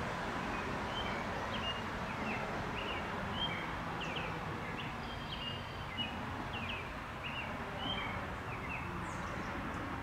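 A small bird chirping: short high calls, about two a second, that stop near the end, over steady low outdoor background noise.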